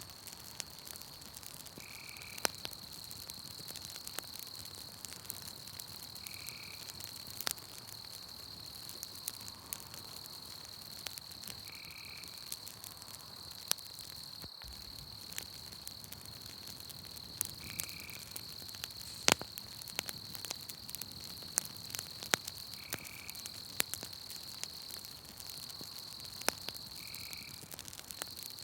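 Campfire crackling with frequent sharp pops, over a steady high trill of night insects. A short call repeats about every five seconds.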